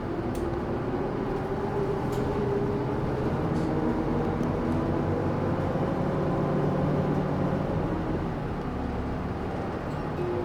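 Isuzu Erga Mio diesel city bus heard from inside the cabin while under way. The engine's pitch climbs over several seconds as the bus accelerates, then falls back about eight seconds in, over steady road noise.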